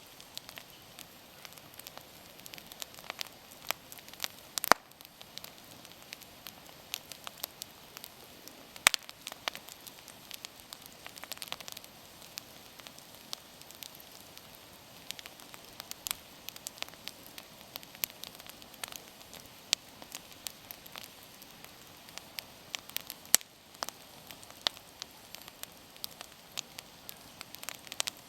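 Campfire burning: irregular crackling and sharp pops over a soft steady hiss, with a few louder pops now and then.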